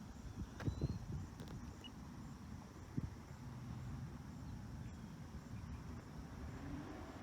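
Outdoor ambience: a steady low rumble, a few sharp knocks at about a second in and again at three seconds, and a faint steady high chirring of insects.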